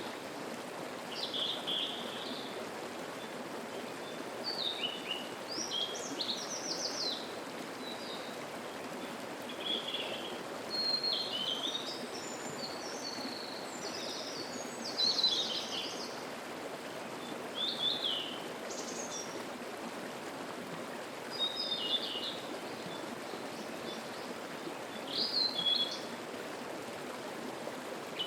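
Mountain stream babbling steadily, with small birds singing short chirping phrases over it every couple of seconds.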